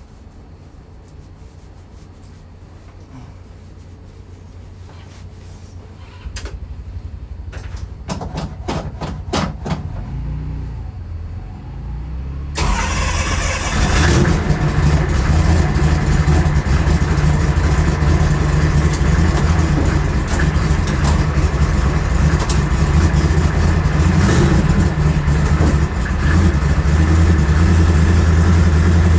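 Twin-turbo Dodge Charger Hellcat drag car's V8 being started: a low rumble and a quick run of clicks, then about twelve seconds in the engine catches with a sudden jump in loudness and settles into a loud, steady idle.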